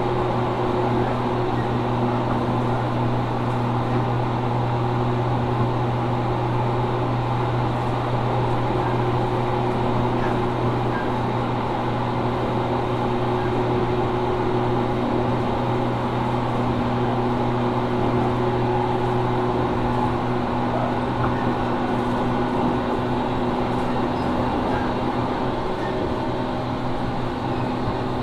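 JR Kyushu 415 series 1500 subseries electric train motor car (MoHa 414-1513), a car noted for an unusual running noise, on the move: a steady rumble of wheels and running gear with a steady low hum and a couple of steady higher tones that fade out near the end.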